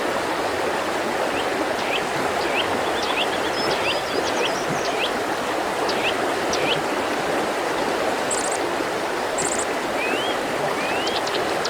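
Mountain river rushing steadily, with small birds singing over it: a run of short rising chirps in the first half, two brief high buzzy notes, then rising whistles near the end.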